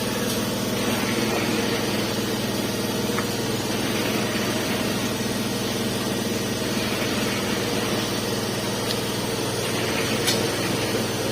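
Concrete mixer's engine running steadily, a constant hum, with a few faint clicks.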